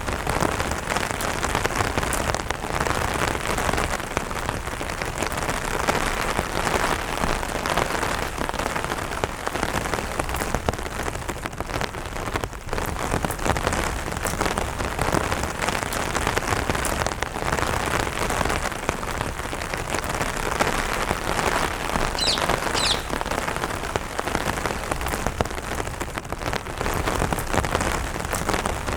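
Light rain falling steadily on an umbrella, with a brief bird chirp about three-quarters of the way through.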